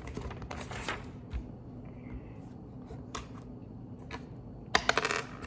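Plastic Lego pieces clicking and rattling as they are handled and sorted, with a quick flurry of clatter near the end.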